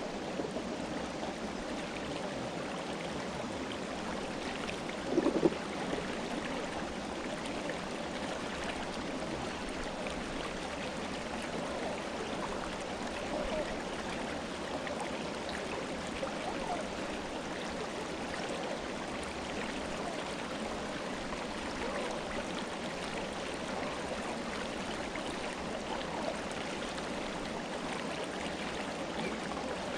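Clear mountain river flowing steadily over rocks, an even rushing and gurgling of water. About five seconds in there is a brief louder splash.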